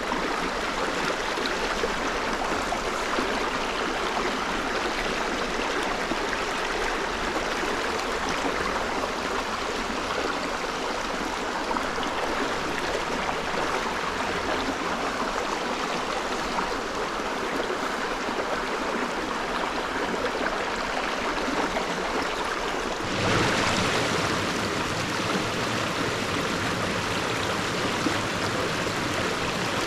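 Small moorland stream running over stones: a steady rush of flowing water. About two-thirds of the way through, the rush abruptly becomes a little louder and fuller.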